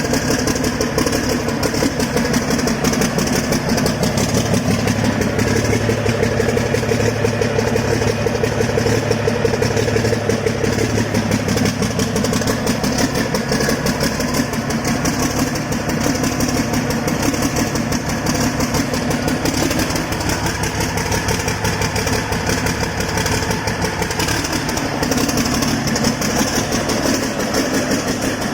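Cummins KTA19-G3 inline-six turbocharged diesel engine running steadily, just after being started.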